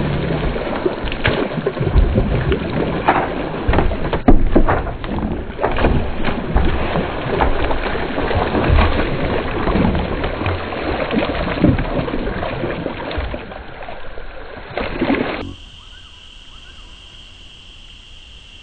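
Loud, rough noise with frequent knocks and rustles. About fifteen seconds in it cuts off abruptly to a steady, high-pitched insect chorus.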